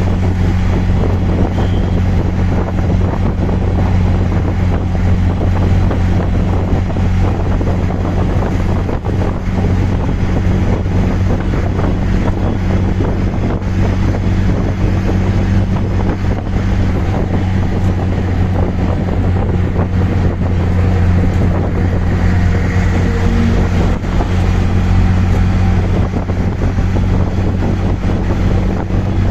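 Auto rickshaw engine running with a steady drone as the vehicle rides along, with wind rushing over the microphone.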